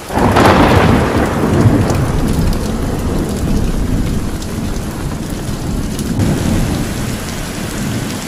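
Heavy tropical downpour pouring steadily, with a loud thunderclap just after the start that rolls on and slowly fades over several seconds, and a further low rumble of thunder later on.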